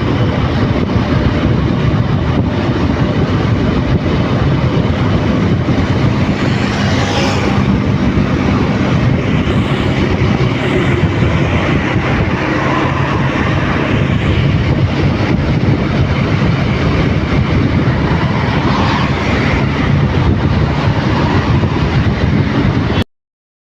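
Motorcycle riding at speed on an open road: a steady engine hum under heavy wind rush on the microphone, with brief swells about seven and nineteen seconds in. The sound cuts off abruptly near the end.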